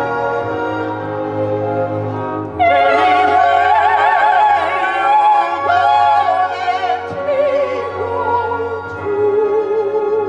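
Operatic singing over an orchestral accompaniment: after a sustained orchestral passage, a singer enters with wide vibrato about two and a half seconds in, holding long notes through to the end.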